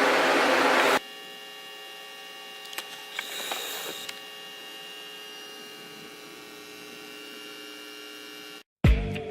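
A steady electrical hum made of many pitched tones, with a few faint clicks partway through. For about the first second it sits under a loud rushing noise that then cuts off suddenly. Music with drums starts right at the end.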